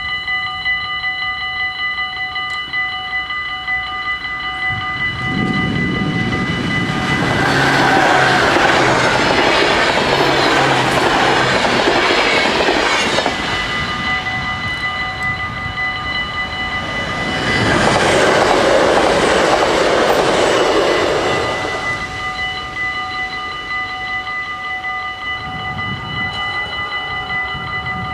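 Dutch AHOB level-crossing bells ringing steadily while two trains pass one after the other. The first train rumbles by from about five seconds in to about thirteen, and the second from about seventeen to twenty-two seconds, with wheels clattering on the rails.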